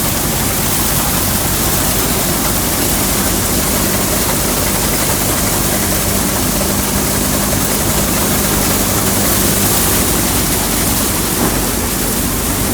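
Threshing machine running, belt-driven by a tractor engine: a steady low engine hum under a dense rushing noise from the machine.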